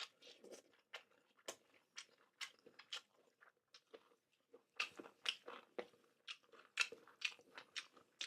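A person eating chicken feet close to the microphone: a run of short, irregular bites, crunches and mouth clicks, coming thicker in the second half.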